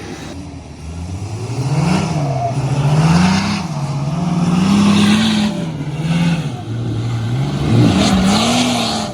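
Off-road 4x4's engine revving up and falling back again and again, about five surges, as it is driven over rough trail.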